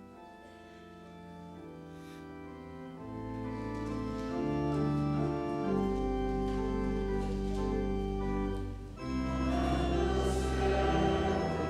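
Church organ playing slow held chords that swell louder, with deep pedal bass notes coming in about three seconds in. There is a brief break near the end, followed by a fuller, louder chord.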